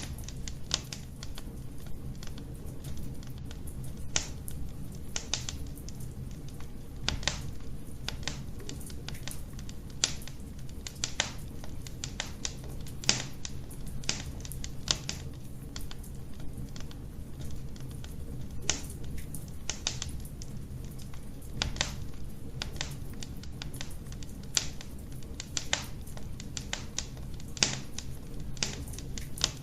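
Wood fire burning in a fireplace: irregular crackles and pops, a few a second, over a steady low rumble of the flames.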